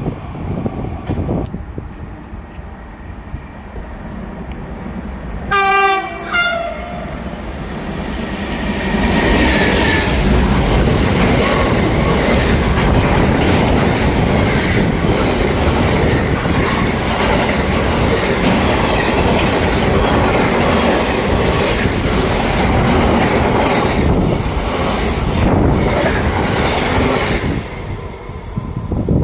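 A train sounds a short horn blast about six seconds in, then passes close by for about twenty seconds: a loud rumble with repeated wheel knocks, dying away near the end.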